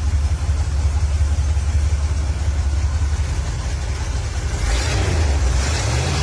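Car engine running with a deep low rumble. About three-quarters of the way through, a louder rush of higher-pitched noise joins it.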